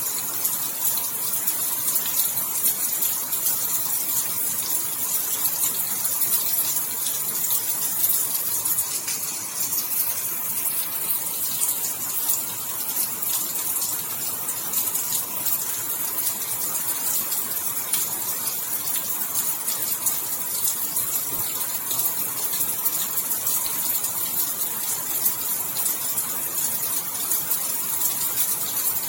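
Steady rain falling: an even hiss, strongest in the treble, dotted with countless small drop ticks.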